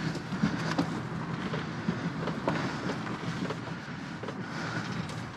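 A vehicle running and moving: steady engine and road noise, with scattered light knocks and rattles.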